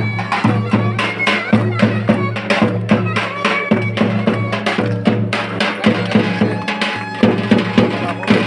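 Lively Turkish folk dance music: a reedy, ornamented melody over a steady low drone, driven by regular drum beats.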